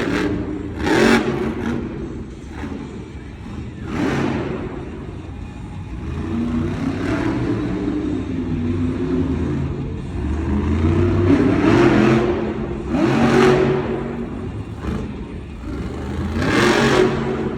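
Monster truck engine revving hard and repeatedly during a freestyle run, its pitch climbing and dropping again and again, with several sharp surges of full throttle.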